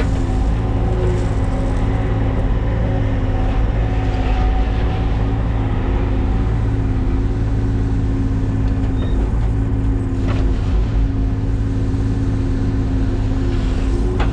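Engine of a piece of construction equipment running at a steady speed, a constant low hum.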